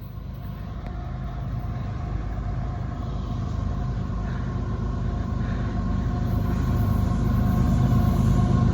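CSX GE ES44AC diesel-electric locomotive with a GEVO V12 engine, leading a freight train: a deep engine rumble growing steadily louder as it approaches.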